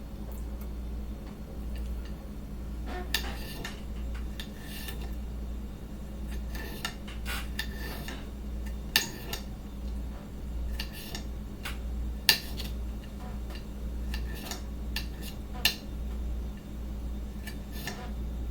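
Irregular clinks and knocks of kitchen utensils against dishes and a cutting board as food is prepared, with a few sharper clacks, over a steady low hum.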